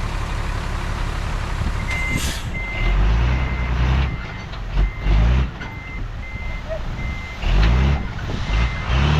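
A heavy construction vehicle's reversing alarm starts beeping about two seconds in, a steady high beep a little under twice a second. Under it a diesel engine rumbles, surging loudly several times.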